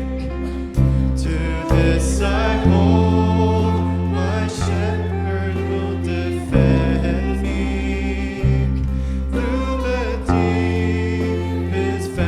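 Church praise band playing a worship song, with bass notes changing every second or two and a group of voices singing over it.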